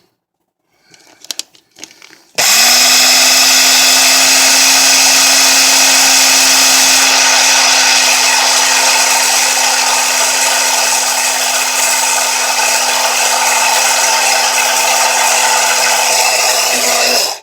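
Electric coffee grinder grinding black seed (nigella seeds). A few faint handling clicks, then the motor switches on about two seconds in and runs steadily at one constant pitch for about fifteen seconds before shutting off at the end.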